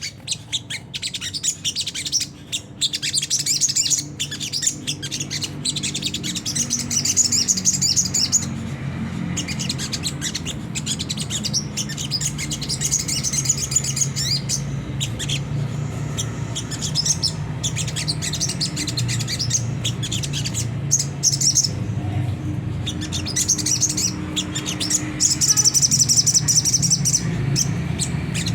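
A sogon bird singing its coarse, rapid twittering 'ngriwik' song in long, high chattering phrases of a few seconds each, with short pauses between. A steady low hum runs underneath.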